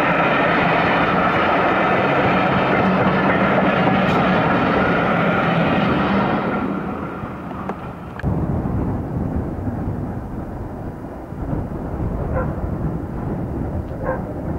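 Passenger coaches running past on the track, a steady wheel noise that fades away about six seconds in. After an abrupt change about eight seconds in, a low rumble of wind on the microphone.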